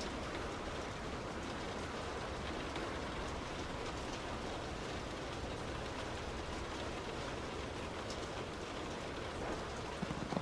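Heavy rain striking a moving car, a steady hiss of rain mixed with wet road noise, with a few sharper louder taps near the end.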